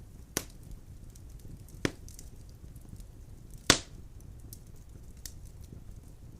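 Burning firewood crackling in a fireplace: three sharp pops about a second and a half apart, the third the loudest, over faint small crackles and the low rumble of the flames.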